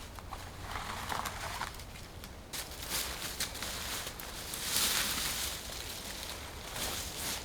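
Irregular crunching and rustling with scattered clicks, growing louder about a third of the way in, over a steady low rumble.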